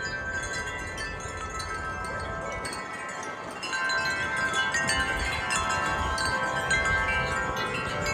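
Metal wind chimes ringing in gusty wind, many overlapping tones. About four seconds in, a stronger gust makes the chiming louder and adds a wind rumble.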